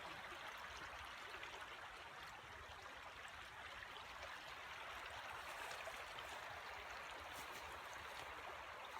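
Creek water rushing steadily, a faint even sound.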